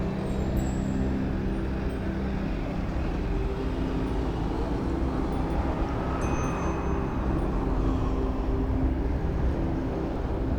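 Road traffic idling at a red light: a steady low engine hum.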